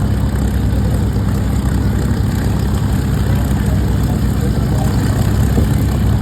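Propeller aircraft engine running steadily at low power, a deep even drone.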